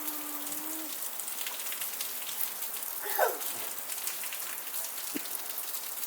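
Steady rain falling and pattering on surfaces, a dense hiss of fine drop ticks. A short falling squeak about three seconds in stands out above it, and a steady low hum stops just under a second in.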